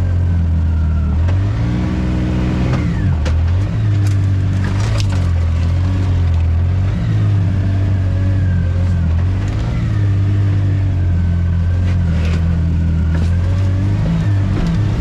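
Off-road vehicle engine running under load, its pitch rising and falling several times as the throttle changes, with a few short knocks and rattles.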